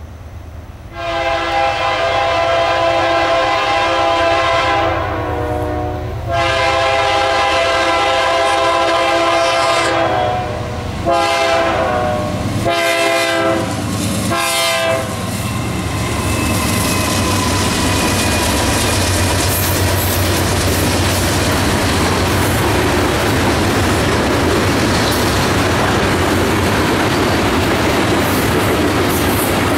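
Diesel freight locomotive's air horn sounding a chord for a grade crossing: two long blasts, then shorter ones, the last ending about 15 seconds in. After that the locomotives and tank cars roll past, wheels clicking over the rail joints.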